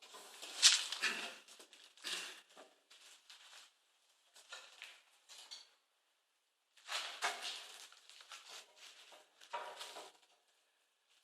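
Fire-laying handling noise at a fireplace firebox: irregular rustling and crackling bursts with short gaps. The loudest burst comes about half a second in, and there are two longer clusters near the start and in the second half.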